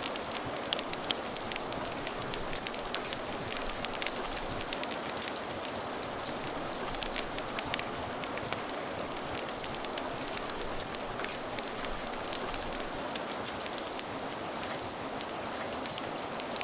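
Steady rain mixed with a crackling fire: an even hiss of rain with many small, sharp crackles and pops scattered through it.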